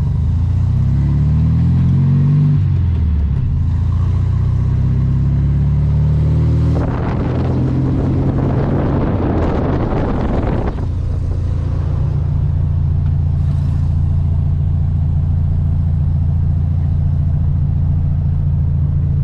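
A 1967 Volkswagen Beetle's air-cooled flat-four engine pulls up through the gears, its pitch rising, dropping at a shift about three seconds in, then rising again. A loud rushing noise covers it for a few seconds in the middle, and the engine then runs steadily at cruising speed.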